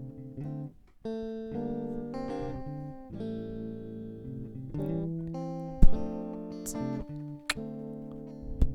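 Acoustic guitar playing sustained chords that change every second or so. A few sharp percussive knocks sound over it, the loudest about six seconds in.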